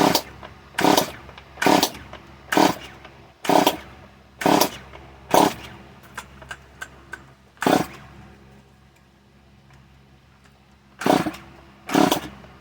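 Stihl MS 170 two-stroke chainsaw being pull-started, with about nine pulls of the recoil starter, roughly one a second, and a pause of a few seconds before the last ones. The engine turns over but does not catch, which the owner puts down to too much fuel or a dirty carburetor wetting the spark plug.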